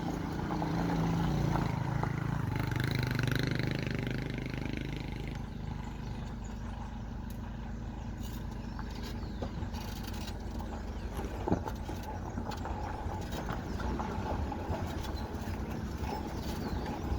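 Motor vehicle engine and road noise: a low engine hum swells over the first few seconds, then settles into a steady rumble, with a single sharp click about eleven seconds in.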